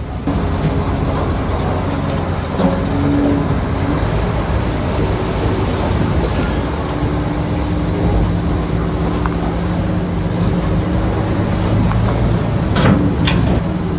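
Heavy diesel engine of earthmoving machinery running steadily, its pitch shifting a few times. A couple of sharp metallic clanks come near the end.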